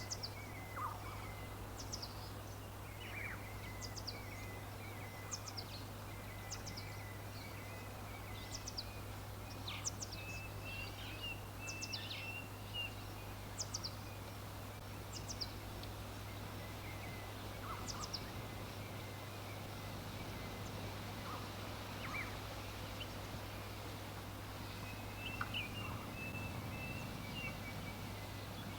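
Wild birds singing: short, high, falling chirps repeat every second or two, with bursts of lower twittering warble, over a steady background hiss and a low hum.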